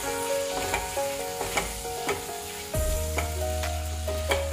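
Potato strips sizzling as they fry in oil in a nonstick pan, while a silicone spatula stirs them, knocking and scraping against the pan several times.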